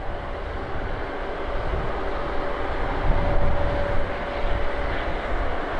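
Jet airliner engine noise: a low rumble that swells about three seconds in, with a faint steady whine over it.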